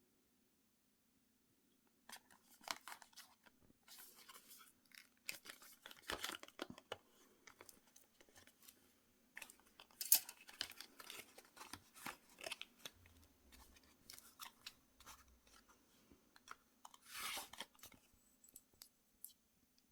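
Packaging being handled and opened: irregular rustling and tearing with small sharp clicks, starting about two seconds in, with the loudest click about halfway and a longer tear near the end.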